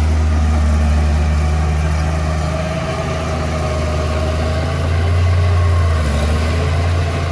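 Diesel engine of heavy earthmoving machinery running steadily with a deep hum, briefly louder about five seconds in.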